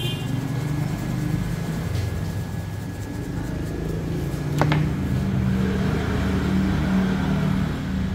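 Small CNC router running while cutting PCB traces: a low motor hum whose pitch shifts as the axes move, over a faint steady whine, with one sharp click about halfway through.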